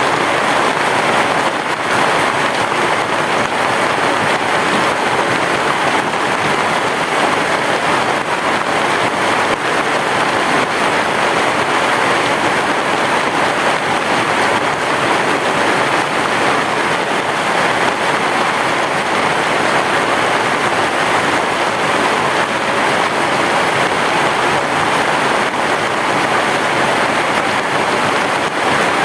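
Heavy rain falling on a roof, a dense, steady hiss that neither rises nor falls.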